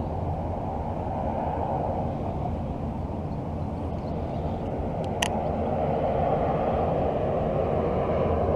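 Military jet aircraft flying overhead, a steady rumble that grows gradually louder, with one sharp click about five seconds in.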